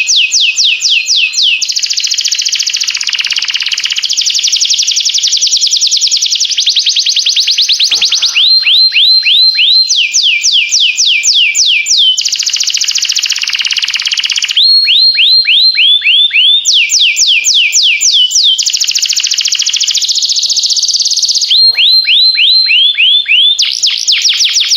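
Domestic canary singing a continuous song of fast trills, each phrase a run of rapidly repeated falling notes, switching to a new phrase every couple of seconds.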